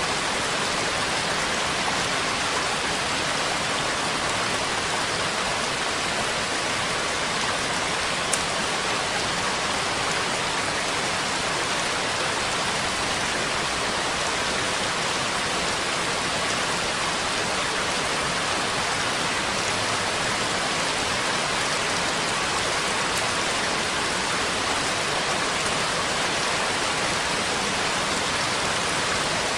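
Steady, heavy rain falling as an even, dense hiss, with one sharp tick about eight seconds in.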